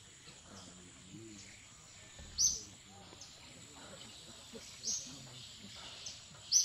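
Bird calling with short, sharp high chirps, three of them about two seconds apart, the loudest near the end, over a thin steady high hum.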